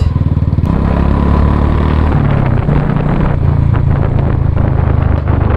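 2019 Royal Enfield Classic 350's 346 cc single-cylinder engine running loud through its exhaust, a fast steady thumping whose pitch steps up around two and again about three seconds in.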